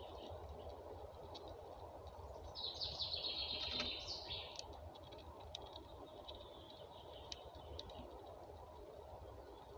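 Outdoor background hum with a bird singing: a brief dense burst of high chirping about two and a half seconds in, the loudest part, with fainter chirps later on. A few faint ticks are scattered through it.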